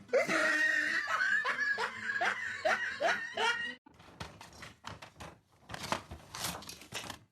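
A person laughing in a run of short repeated bursts for nearly four seconds, then quieter clicks and rustling.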